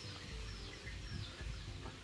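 A bird calling over and over: short, high chirps that fall in pitch, about two a second, over a low rumble.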